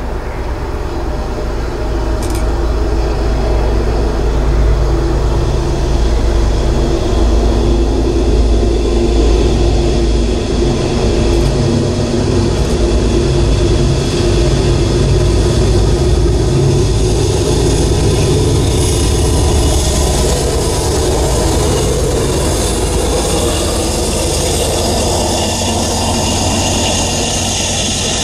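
Norfolk Southern freight train approaching and passing: the diesel locomotives' engines make a loud, steady low rumble that builds over the first few seconds. Later, as the intermodal container cars roll by close at hand, it turns into a higher, rushing rail noise.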